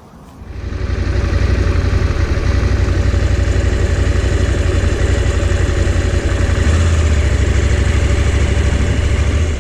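Motorcycle engine running steadily while riding, a strong low drone with a faint steady tone above it. It comes in about half a second in and stops abruptly near the end.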